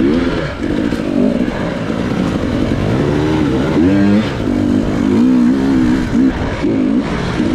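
Dirt bike engine revving up and down again and again, its pitch rising and falling as the rider works the throttle on a trail.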